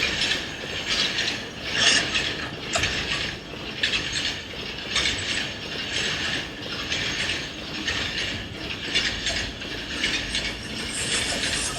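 Alaska Railroad passenger train in motion: the car rattles and clatters in uneven bursts about every half second to second over a steady rumble of the wheels on the track.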